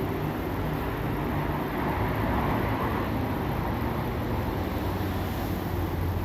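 Vehicle running on a rain-soaked road: a steady rushing noise of rain and tyres over a low engine hum.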